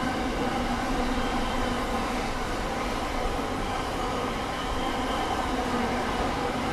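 Intermodal freight train's container wagons rolling past: a steady rumble of steel wheels on the rails.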